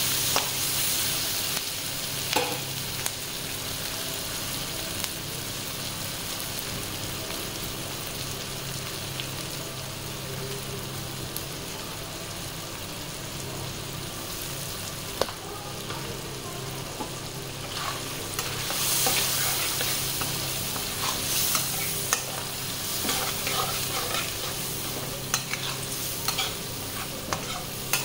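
Sliced onions and tomatoes sizzling in hot oil in a kadai while a metal spatula stirs and scrapes them, with occasional sharp clicks of the spatula against the pan. The sizzling is louder at the start and again from about two-thirds of the way through.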